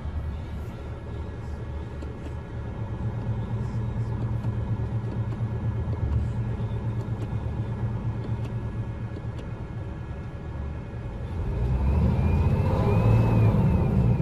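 Scania R450 truck's six-cylinder diesel engine running steadily, getting louder about two seconds before the end, with a faint rising-and-falling whistle.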